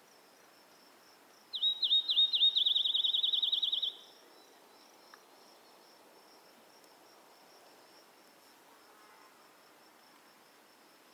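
A songbird sings once, about two seconds long: a few sharp down-slurred notes running into a fast trill. Crickets chirp steadily and faintly underneath.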